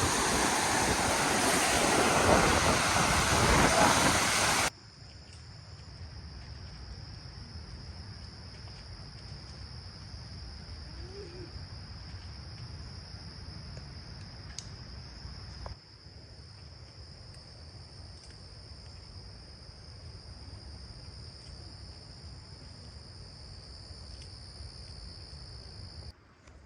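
Loud rushing of wind and lake surf for the first few seconds. It cuts off suddenly to a much quieter outdoor sound, a low wind rumble with a steady high-pitched drone that keeps on until near the end.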